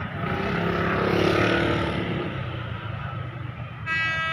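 Electric commuter train rumbling at the platform, with a swell of mechanical noise in the first two seconds, then a short horn blast near the end, sounded as the train is about to depart.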